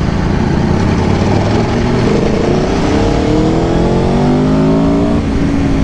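Aprilia Tuono V4 Factory's 1077 cc V4 engine pulling under acceleration, its pitch rising steadily for a few seconds, then dropping about five seconds in as it shifts up, over a loud haze of wind and road noise.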